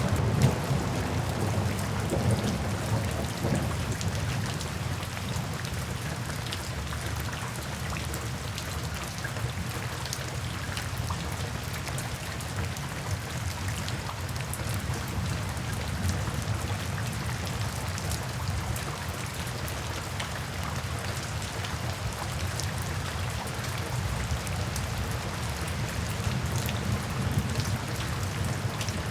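Steady heavy rain falling, with many drops pattering on a surface. A low rumble of thunder fades out over the first few seconds.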